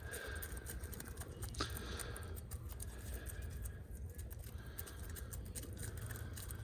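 Wind rumbling on the microphone, with scattered faint clicks and soft chicken sounds from backyard hens.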